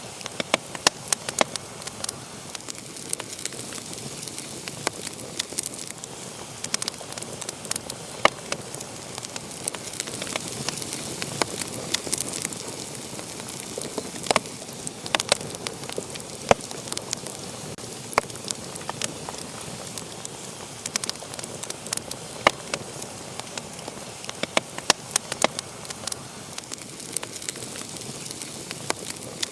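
Fire burning in a fireplace, crackling steadily: a soft hiss with frequent sharp, irregular pops and snaps.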